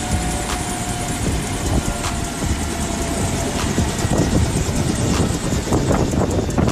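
Steady vehicle noise, with a thin steady tone through the first four seconds or so.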